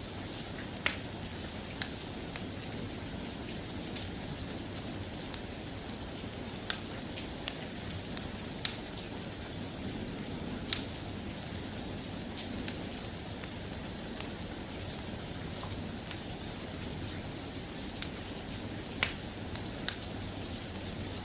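Steady, soft rain, with scattered sharp ticks every second or two.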